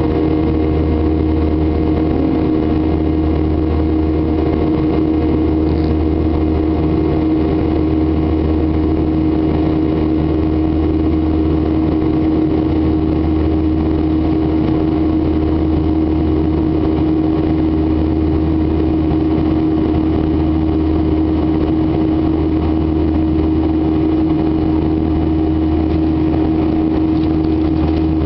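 Boeing 737-800's CFM56-7B jet engines running at steady thrust, heard inside the cabin as a loud, unchanging drone with a steady hum.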